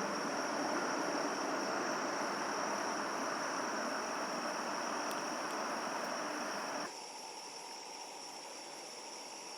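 Night insects, crickets, singing a steady high continuous trill over an even background hiss. The hiss drops away suddenly about seven seconds in, leaving the insect song.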